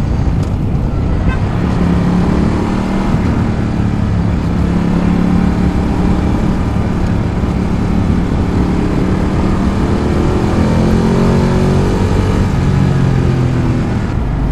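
Ducati Multistrada 1200's V-twin engine and exhaust running at steady riding revs, picked up close to the exhaust, under a steady rushing noise. From about two seconds in the engine note stands out more clearly, its pitch drifting gently up and down.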